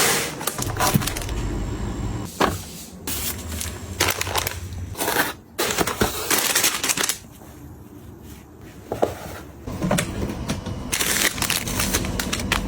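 Hands handling packaging and containers: irregular crinkling and rustling with sharp clicks and knocks, quieter for a couple of seconds past the middle.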